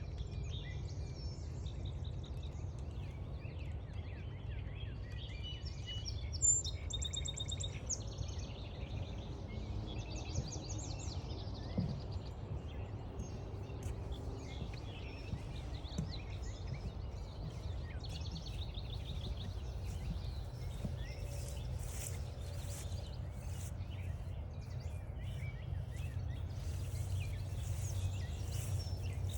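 Several wild songbirds singing and calling over a steady low rumble of outdoor background noise, with a fast trilled song about seven seconds in.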